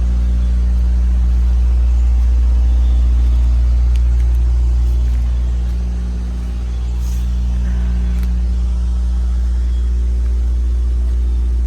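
Steady low motor hum, unchanging in pitch, that dips slightly about six seconds in.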